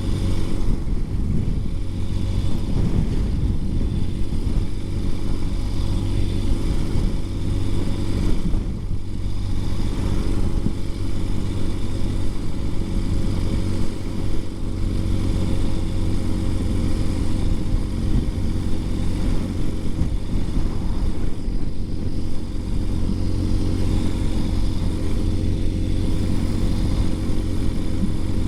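2020 Ural Gear Up sidecar motorcycle's air-cooled 750 cc flat-twin engine running while riding, its pitch holding steady with little change in engine speed.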